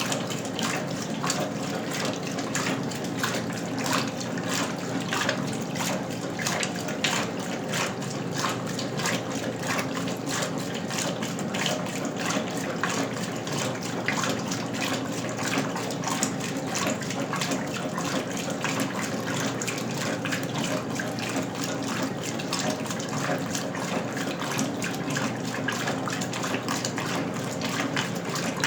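Westinghouse Lavínia LWAAP6KX washing machine running with water in the tub: steady splashing and rushing of water over a continuous low machine hum.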